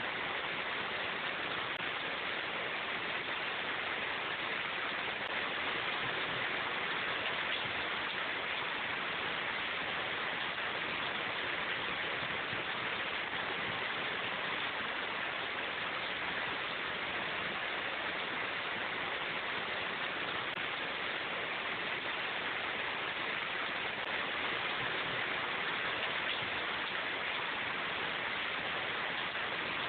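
Steady rain falling in a forest: an even, unbroken hiss with no distinct drops or thunder.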